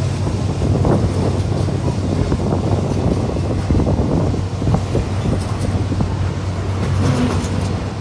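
Freight train rolling past: a steady low drone with the wagons rattling and the wheels knocking irregularly.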